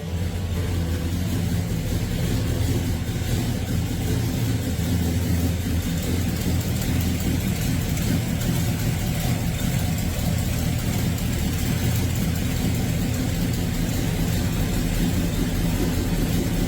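Chevrolet Chevelle's 383 V8 engine idling steadily with a low, even exhaust note.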